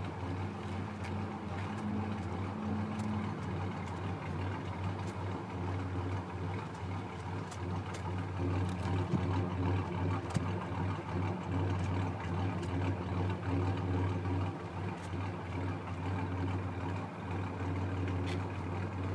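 Ford 4.0-litre V6 idling in a 1990 Ford Ranger: a steady low engine hum whose level wavers and dips unevenly, the rough idle the engine swap is suffering from.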